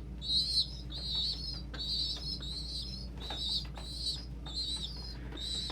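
Young dove squabs squealing over and over in short, wavering high-pitched calls, about two a second, the begging cries of chicks wanting to be fed. A steady low blowing hum runs underneath.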